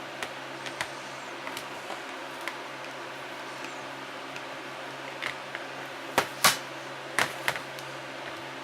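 Small metal parts of a snow thrower differential clicking and clinking as they are handled and fitted, with a few sharp, loud knocks about six to seven and a half seconds in, over a steady background hum.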